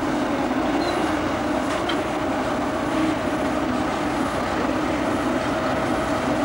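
Narrow-gauge railway locomotives moving slowly along the line. It is a steady running sound with a faint, even hum and no distinct exhaust beats.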